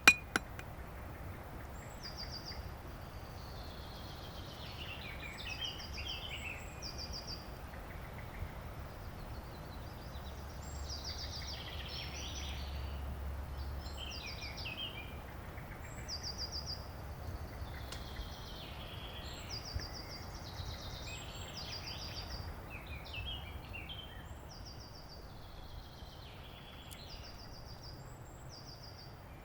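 Songbirds singing in a forest: short, high trilled phrases repeated every two seconds or so, mixed with lower warbling notes, over a faint steady low background rumble.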